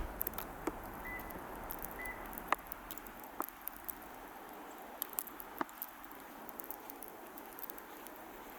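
Quiet outdoor hush in fresh snow with scattered, irregular faint clicks and crunches, and two brief high chirps about one and two seconds in.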